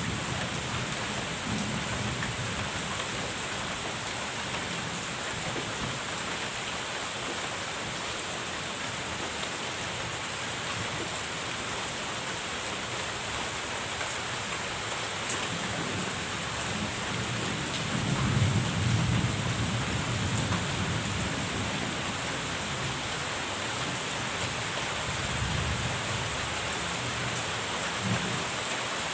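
Steady rain falling, with low rolls of thunder about two-thirds of the way in and again near the end.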